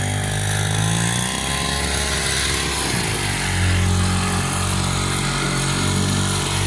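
Small 40 mm-bore two-stroke brush-cutter engine driving a long-tail boat, running steadily through its homemade exhaust with a fairly mild exhaust note. The revs rise about a second in, drop back around three seconds in, then hold steady.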